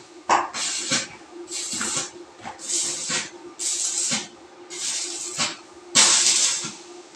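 Power sprayer spraying water in repeated short hissing bursts, about one a second, over a faint steady low hum.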